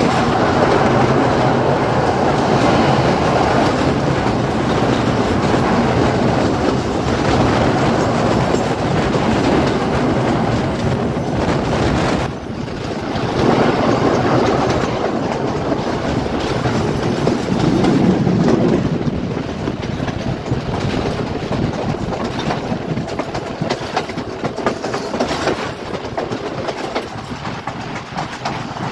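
Express passenger train running across a railway bridge, its carriages passing steadily, a little quieter over the last third.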